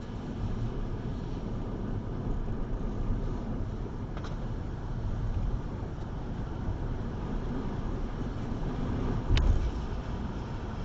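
Car driving: a steady low road and engine rumble, with a faint click about four seconds in and a sharp knock about nine seconds in, the loudest moment.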